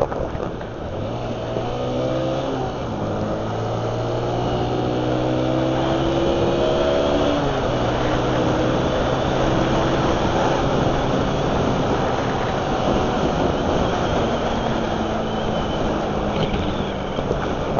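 Honda CG single-cylinder motorcycle engine under way, climbing in pitch as it accelerates. Near eight seconds in it breaks off and drops for a gear change, then runs steadily, with wind noise throughout.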